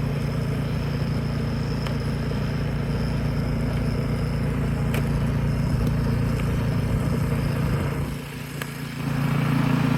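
Snowblower engine running steadily, its level dropping for about a second near the end and then coming back up.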